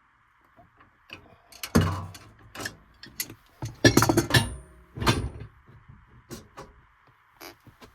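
A run of irregular knocks and clanks, some with a short metallic ringing, like tools or metal parts being handled and set down.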